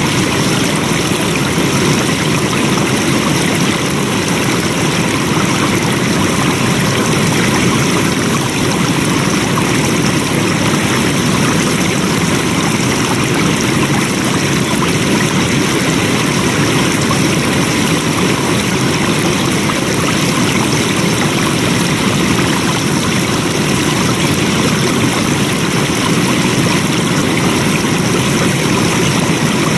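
Flowing water of a stream, running steadily with an even rushing wash.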